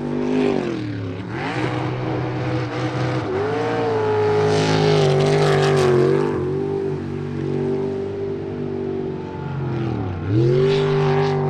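Jet sprint boat engine running hard through a race course. Its revs drop sharply and climb back twice, about a second in and near the end, as the boat throttles through turns, with a louder hiss in the middle.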